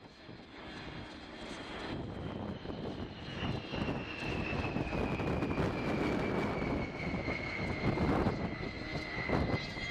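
Boeing B-52H Stratofortress's eight turbofan engines rumbling in a flypast, swelling up over the first couple of seconds and then holding loud. A high whine above the rumble slowly falls in pitch as the bomber passes.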